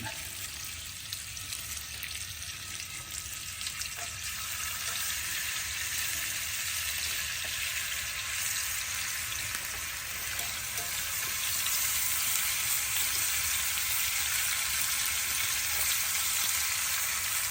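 Beef rouladen rolls sizzling as they brown in hot beef tallow in a cast iron pan: a steady frying hiss with a few faint ticks, getting a little louder about twelve seconds in.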